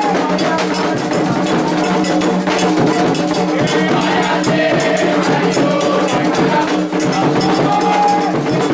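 Candomblé ritual music: hand drums beating a steady rhythm with a bell or wood-block-like clapper, and voices singing over it.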